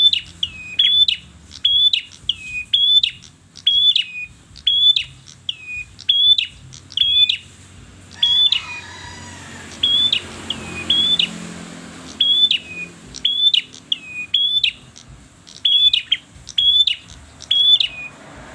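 A red-headed prenjak, a small songbird, calling insistently: sharp, high chirps repeated about once or twice a second, often in pairs, with a short break near the middle.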